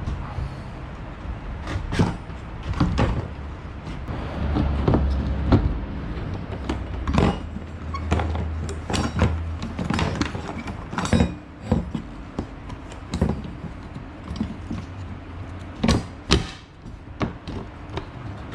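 Irregular knocks, clicks and clatter of parts and tools being handled during fuel pump reassembly on a GM truck's fuel tank, over a low hum that comes and goes.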